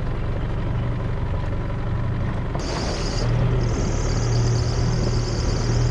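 A 4WD's engine running with a steady low drone as it drives through a shallow, flowing river, with water washing around the vehicle. About two and a half seconds in, a higher hiss of water joins and the drone grows a little stronger.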